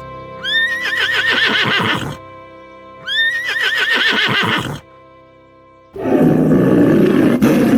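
A horse whinnying twice, the same call repeated, each rising then shaking down in pitch, over background music. About six seconds in, a loud rough roar begins.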